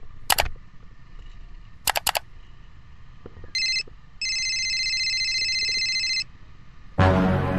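Mouse-click sound effects, a single click and then a quick triple, followed by an electronic ringing tone like a phone ringing: a short burst, then a steady ring of about two seconds. Music starts near the end.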